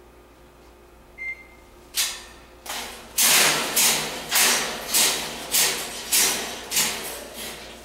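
Blue and gold macaw giving a string of loud, harsh squawks, about one every half second after a short high chirp, typical of an agitated, aggressive bird.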